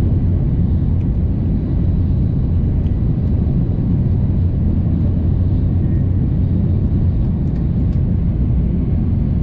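Steady low rumble of a Shinkansen bullet train running, heard from inside the passenger car, with a few faint light clicks.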